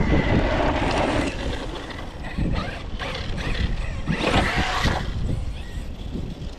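Arrma Notorious 6S RC stunt truck's Spektrum Firma 2050Kv brushless motor revving in short bursts, with tyres churning over the ground.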